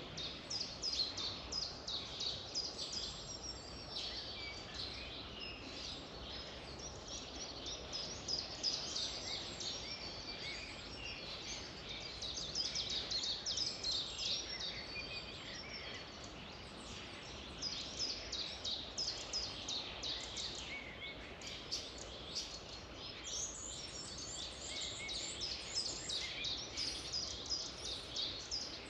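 Several songbirds singing together, a dense chorus of quick, high chirps and trills, over a faint steady background hiss.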